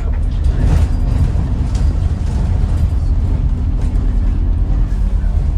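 Scania N94UD Omnidekka double-decker bus running, heard from inside the passenger saloon: a steady low engine drone with road noise.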